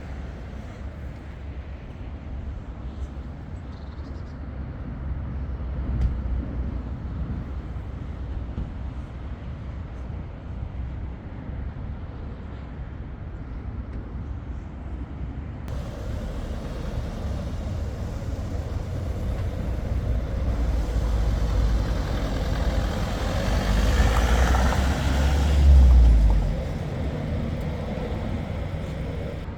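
Low, steady outdoor rumble, much like wind buffeting the microphone, growing louder in its second half to a peak a few seconds before the end, then dropping back.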